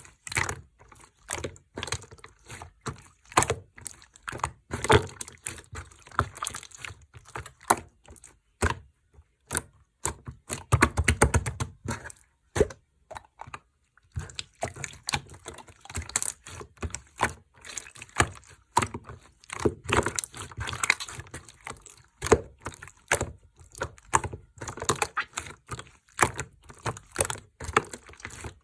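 Slime being squeezed, poked and mixed by hand, making a run of small sticky crackles and popping clicks. A dense flurry of them comes about ten to twelve seconds in, then a short pause just before fourteen.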